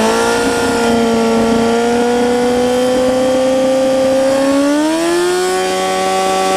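2013 Honda CBR600F's inline-four engine held at steady revs, around 5,000 rpm, through a Black Widow silencer with its baffle removed. About five seconds in it revs up higher and holds there.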